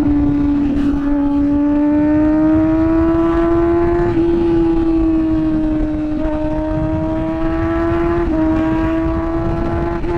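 Kawasaki ZX-6R inline-four engine running at high revs while riding, a steady high note whose pitch creeps up gently and eases slightly a few times, at about 4, 6 and 8 seconds in. Wind rumble on the microphone lies underneath.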